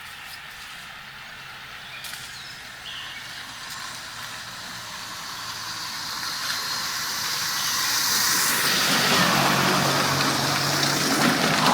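A motor vehicle approaching, its engine hum and road noise growing steadily louder and peaking near the end.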